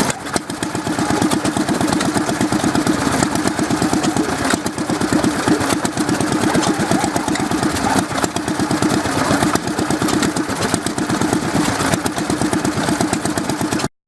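Southern Cross twin-cylinder petrol stationary engine running steadily with a rapid, even beat of firing strokes.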